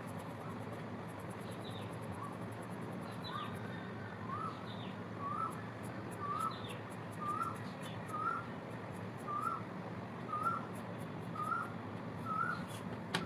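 A bird giving the same short rising-and-falling chirp over and over, about once a second, starting about two seconds in, over a steady background hum.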